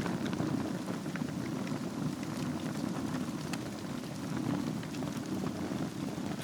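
Wood fire burning in a fireplace: a steady low rush of flames over glowing embers, with scattered small crackles and pops.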